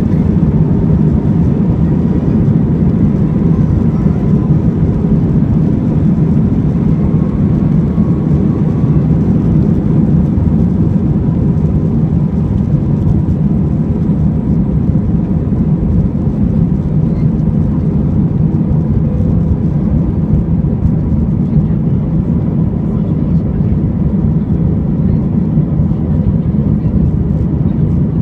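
Airbus A320's jet engines running at takeoff power, a loud, steady low rumble with a faint steady whine above it.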